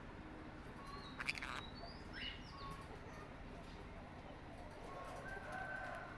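Small pet parrots giving a few short, faint chirps, the loudest just over a second in, with a longer whistled note near the end.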